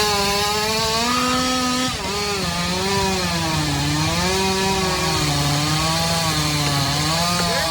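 Chainsaw engine running hard while cutting wood, its pitch sagging and recovering several times as the chain loads up in the cut.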